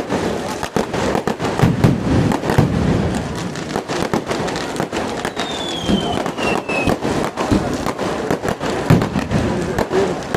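Fireworks: a dense, unbroken run of firecracker bangs, many a second, at a steady loud level. A short falling whistle sounds about halfway through.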